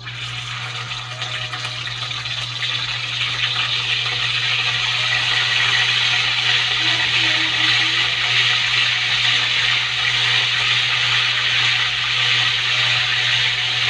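Soy-marinated chicken pieces frying in hot oil in a wok: a steady, loud sizzle that starts suddenly as the first piece goes in and grows louder over the first few seconds as more pieces are added.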